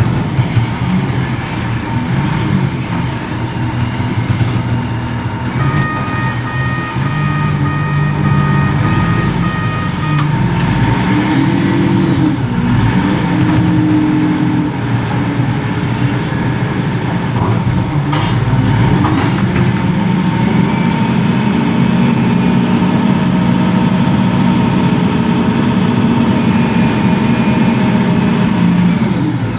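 Reach stacker's diesel engine running steadily, its pitch rising and falling briefly partway through as it works. About six seconds in, a steady high tone sounds for about four seconds.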